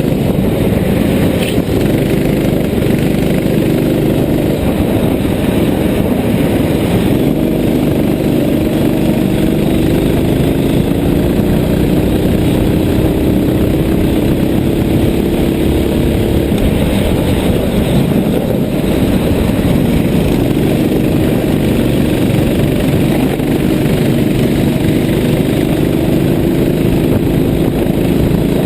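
Racing kart engine running hard on track. Its pitch climbs steadily for several seconds at a time, then falls back and climbs again as the revs rise along the straights and drop into the corners.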